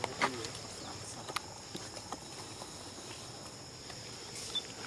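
Steady high-pitched insect drone, with a sharp click about a quarter second in, a fainter one about a second later, and a brief high chirp near the end.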